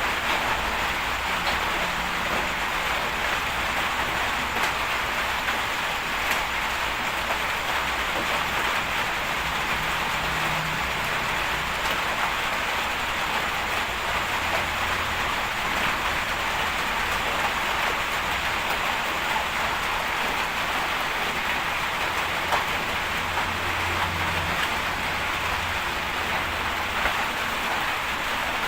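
Steady hiss of heavy rain falling, with a faint low rumble coming and going underneath.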